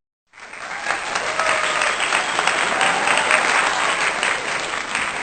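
Crowd applause, a dense patter of many hands clapping, starting about a third of a second in and holding steady.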